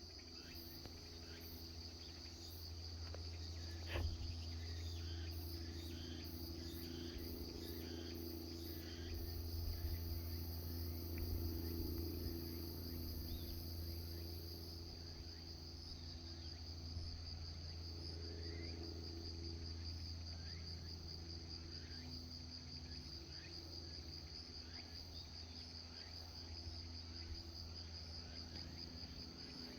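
Steady, fast-pulsing insect trilling in a continuous chorus, with faint short bird chirps scattered through it over a low steady hum. A single sharp knock about four seconds in.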